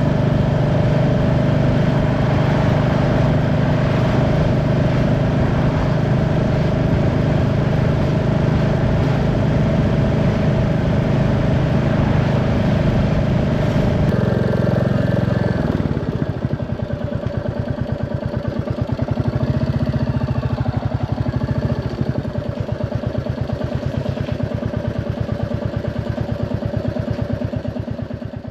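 Royal Enfield Classic 350's single-cylinder engine running while the bike is ridden. The engine note drops and turns quieter about halfway through, then carries on at the lower level.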